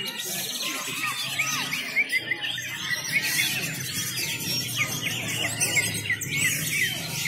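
Many caged songbirds singing at once at a bird-song contest, a dense unbroken mix of rapid whistles, chirps and quick rising and falling notes, over a steady low hum.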